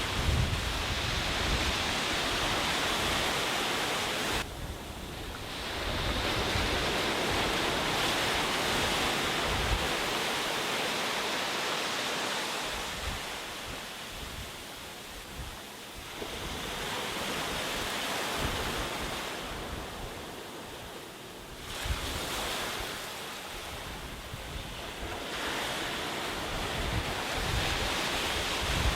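Sea waves breaking on a beach, the surf swelling and ebbing over several seconds, dropping away sharply about four seconds in and surging back up past the middle. Wind rumbles on the microphone underneath.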